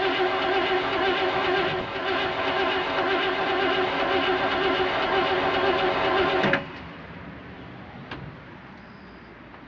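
Starter motor cranking the 1968 Chevrolet C-60's 327 V8 with a steady whine; the engine does not catch, and the cranking stops abruptly about six and a half seconds in. The truck is hard to start, which the owner puts down to the carburetor losing its prime.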